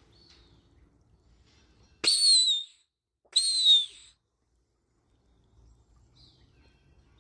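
Two loud, descending hawk-like screams, each under a second long and about a second apart, the second falling a little further than the first.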